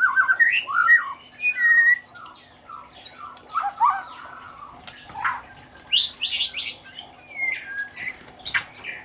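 White-rumped shama singing a varied run of quick whistled and chattering notes, with a fast series of falling notes in the first couple of seconds and sharp high notes later on.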